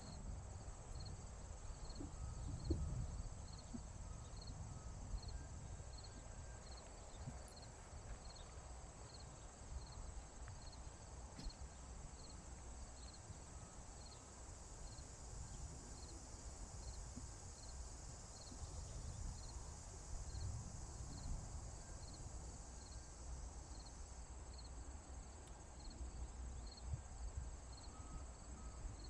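Crickets and other insects chirping: a steady high trill with a short regular chirp about once a second, over a low outdoor rumble.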